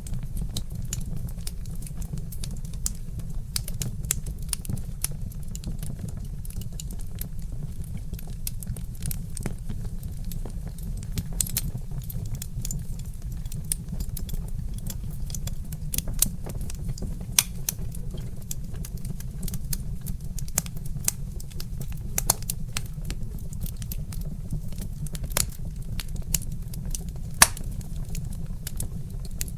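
Wood fire crackling: a constant run of small snaps and pops, a few of them louder (around the middle and near the end), over a steady low rumble.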